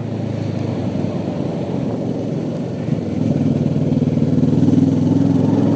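Kawasaki Ninja 650R's parallel-twin engine running as the motorcycle is ridden, its note growing louder and a little higher about three seconds in as the rider opens the throttle.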